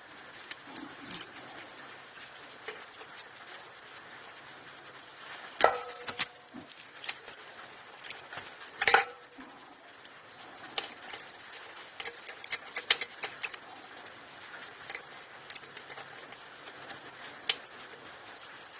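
Metal clinks and knocks of hand tools and parts being handled while a Lister SR3 engine is taken apart. Two louder metallic strikes ring briefly, about six and nine seconds in, followed by a run of light clicks.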